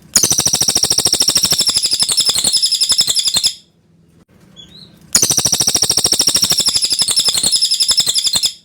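Cililin (velvet-fronted nuthatch) calling in two long runs of rapid, high, chattering notes, each lasting about three and a half seconds, with a short pause between them.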